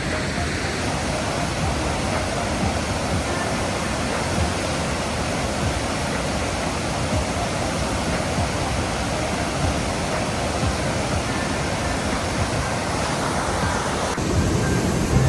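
Waterfall roaring: a steady, continuous rush of falling water.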